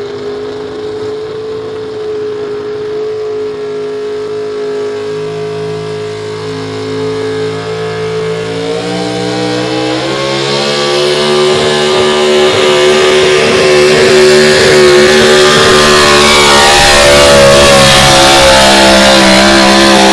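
Super stock 4x4 pulling truck's engine held at high revs under load through a pull, getting steadily louder. Right at the end the throttle is cut and the engine's pitch drops away fast.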